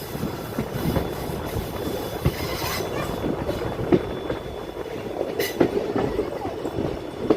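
Train running on the rails, its wheels and carriage clattering with many irregular knocks and a few sharper clacks.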